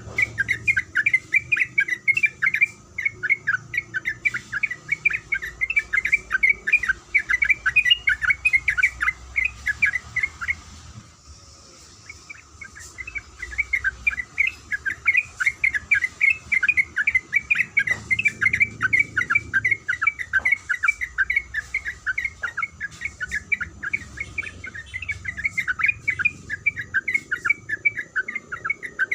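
Yellow-vented bulbul (trucukan) calling in fast runs of short, sharp chattering notes. The calls break off for a second or two about ten seconds in, then resume.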